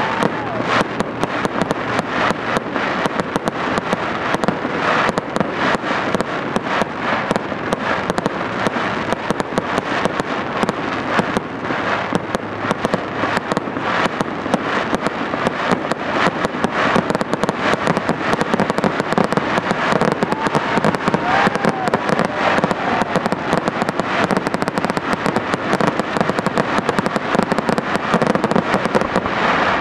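Fireworks display: a loud, unbroken barrage of rapid pops and crackles, with many aerial shells bursting one on top of another.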